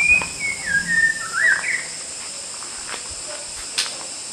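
White-rumped shama singing one short, clear whistled phrase that steps down in pitch and then flicks back up, lasting under two seconds.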